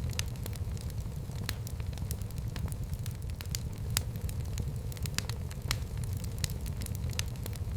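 Wood fire burning in a fireplace, with a steady low rumble of the flames and frequent sharp, irregular crackles and pops.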